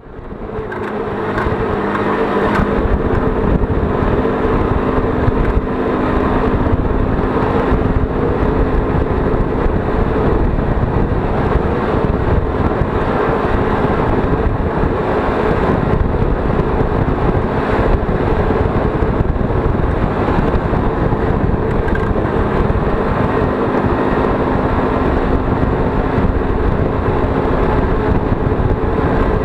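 ZiD 50-01 moped's 50 cc engine running steadily while the moped is ridden, with a constant drone. It fades in during the first second.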